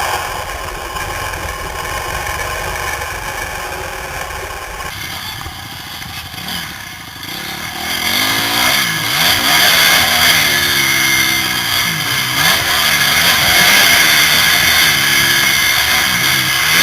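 Motocross bike engine being ridden hard, revving up and down repeatedly with the throttle and gear changes, picked up by a helmet camera. It is steadier and lower for the first few seconds, then louder from about eight seconds in, with the pitch rising and falling again and again.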